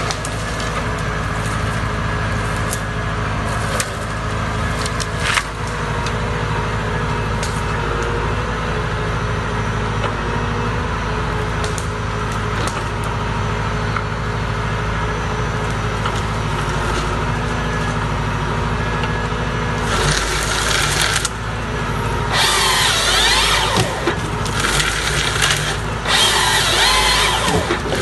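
Chainsaw engine running steadily, then cutting into wood in four bursts of one to two seconds each, starting about two-thirds of the way in.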